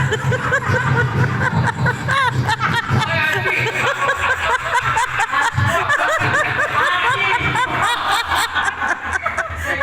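People's voices making quick, repeated high-pitched vocal sounds, with snickering and chuckling laughter.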